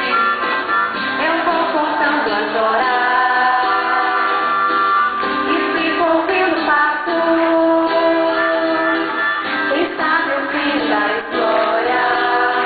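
A small band playing an acoustic arrangement, with a woman singing the lead melody in long held notes over the instruments.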